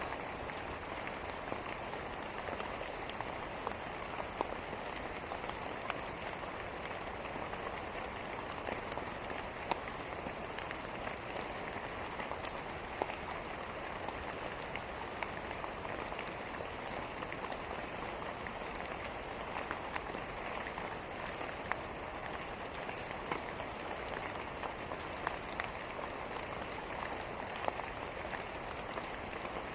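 Steady rain falling, a constant hiss with scattered sharp drop ticks through it.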